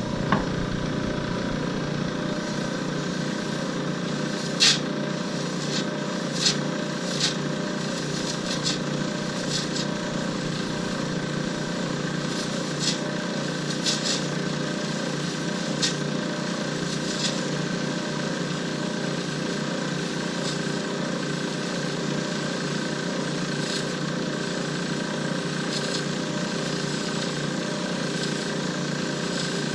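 Electric power-tool motor running steadily at constant speed, with scattered sharp clicks over the first half.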